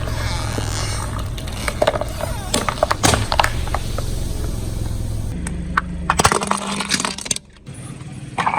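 A car tyre rolling over and crushing brittle objects: sharp cracks and snaps in two clusters, about two seconds in and again around six seconds, over the low hum of the car's engine.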